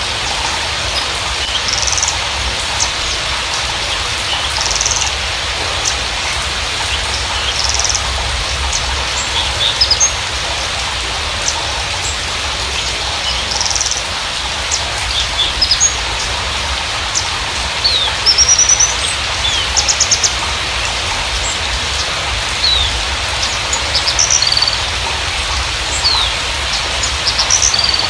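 Javan bushlark (Mirafra javanica parva) singing: short high chirps and quick gliding notes scattered all through, with a fast rattling trill about two-thirds of the way in. It sits over a steady hiss of background noise.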